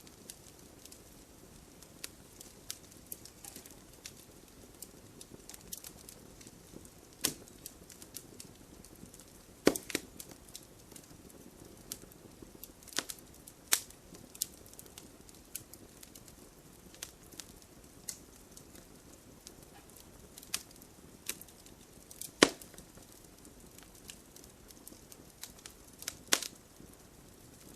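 Wood fire in a fireplace crackling, with irregular sharp pops and snaps over a low steady hiss; the loudest pops come about ten seconds in and again near twenty-two seconds.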